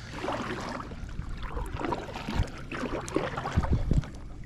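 Water sloshing and splashing around a kayak, with a few low knocks and thumps.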